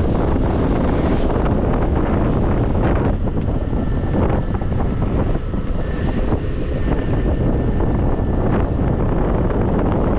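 Heavy wind buffeting the microphone while riding a scooter, with the scooter's engine running underneath. A faint high whine comes in from about two seconds in and fades out near the end.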